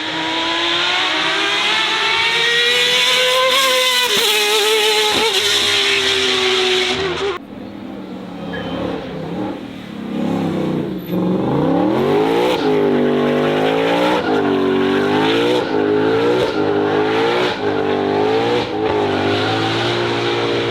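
Racing car engine at full throttle, pitch climbing through the gears with quick upshifts, cut off sharply about seven seconds in. Then a car's engine revving up and down about once a second with tyre squeal, as a car drifting or spinning donuts does.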